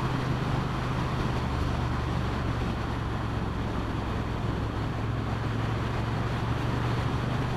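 Motorcycle engine running at a steady speed while riding, with wind and road noise over it.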